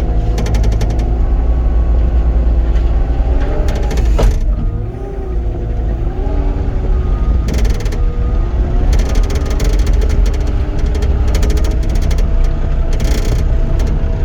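Caterpillar 259D compact track loader working dirt: its diesel engine running under changing load, the pitch sagging about four seconds in, with a sharp clank then and repeated metallic clatter and rattling later on.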